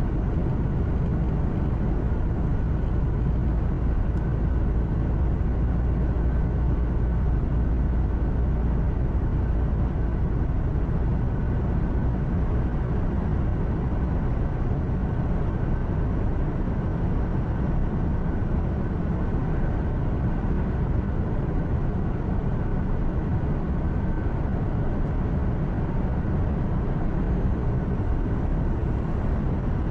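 Steady low engine drone and road noise inside a moving truck's cab, with a faint steady whine above it and no sudden events.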